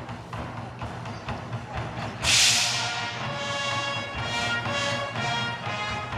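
Concert wind band playing: percussive beats, then a loud cymbal crash a little over two seconds in, followed by sustained chords from the band.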